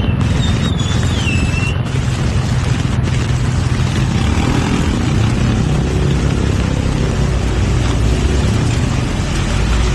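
Steady road traffic rumble along a busy city boulevard, with a brief high, falling whine in the first two seconds.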